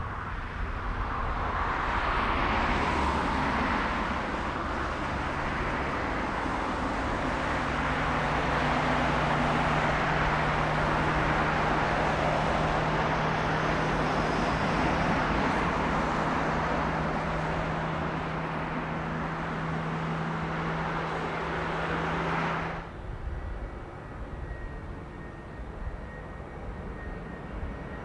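Jet airliner engines running loud and steady, with a steady low hum under the noise; the sound cuts off suddenly about 23 seconds in.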